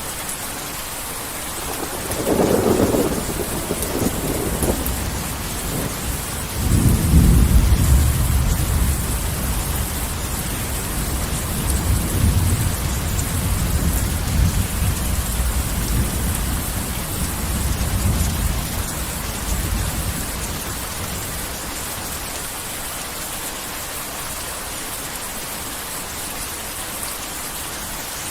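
Steady heavy rain with rolling thunder. A short rumble comes about two seconds in. A louder, deeper peal follows a few seconds later and rolls on in swells for over ten seconds before dying away, leaving the rain alone.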